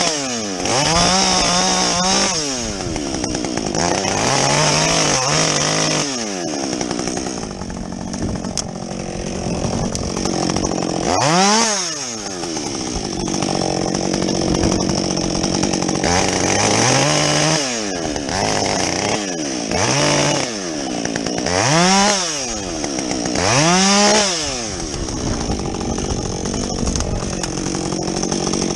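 Husqvarna 562XP two-stroke chainsaw with a modified muffler, bucking a felled tree: the engine revs up and drops back again several times, with steadier running between the revs.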